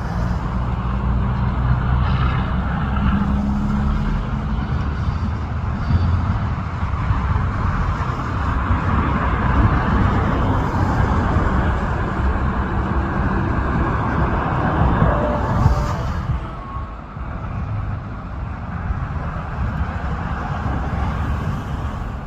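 Steady motor-vehicle noise: a low engine hum under road and tyre noise, easing off a little about two-thirds of the way through.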